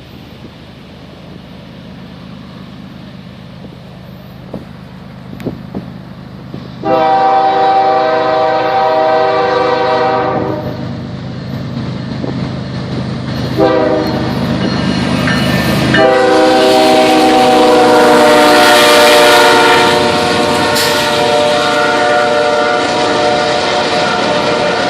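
CN freight train's diesel locomotive approaching with a low steady engine hum, then sounding its multi-note air horn: a long blast of about three and a half seconds, a shorter one, and a final one held as the train passes. Under the last blast the noise of the engine and rolling wheels builds and stays loud.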